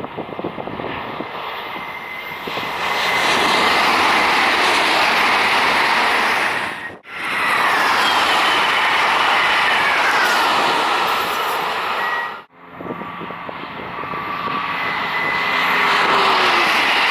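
High-speed trains passing at speed, in three takes joined by abrupt cuts: each a rushing roar that builds and then holds loud. In the middle and last takes a whine falls in pitch as the train goes by.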